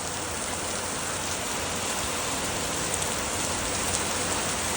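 Very heavy rain pouring down and splashing on the ground, a steady dense hiss.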